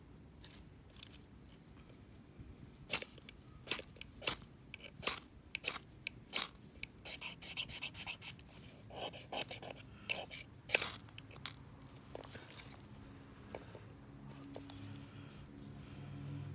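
Knife shaving curls from a wooden stick to make a feather stick: a series of short, sharp scraping strokes, about one or two a second, that die away after about eleven seconds.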